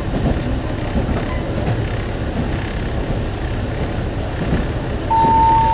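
One-car diesel railcar running, heard from inside the cabin as a steady low rumble. Near the end a single steady tone about a second long sounds over it, the chime that comes before the onboard station announcement.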